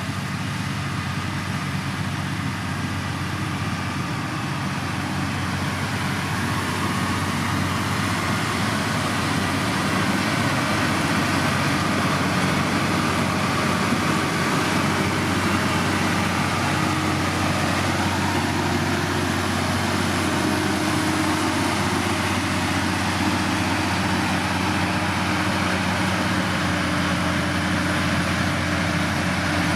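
Diesel engine of heavy road-building machinery running steadily, growing a little louder about a quarter of the way in and then holding steady.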